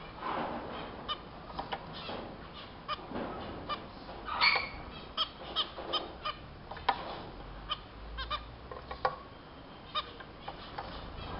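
Small cage finches calling: a stream of short nasal beeps and honks, the typical calls of zebra finches, repeated irregularly many times.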